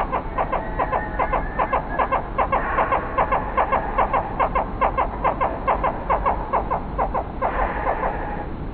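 A bird calling in a rapid, even run of short mid-pitched notes, about four a second, with a brief harsher burst near the end.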